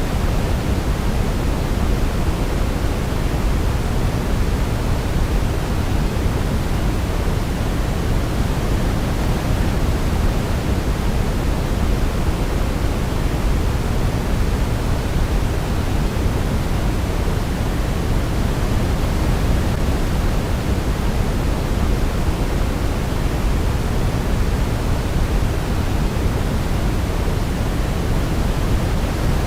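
Steady synthetic sleep noise, a constant even rush weighted toward the low end, like pink noise. No melody or other sound rises above it.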